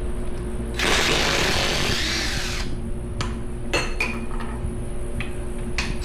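A handheld power tool runs for about two seconds, spinning off a fastener, followed by several sharp metal clinks of tools and parts being handled.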